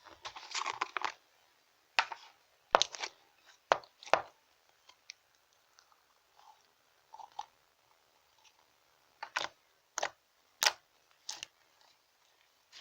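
Slime being handled by hand, making irregular wet clicks, crackles and air-bubble pops: a quick cluster at the start, then single sharp pops with quiet gaps between them.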